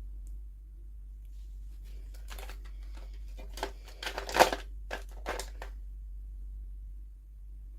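Plastic toy packaging crinkling and rustling as it is handled and opened, in a run of short bursts over a few seconds with the loudest crackle in the middle, over a steady low hum.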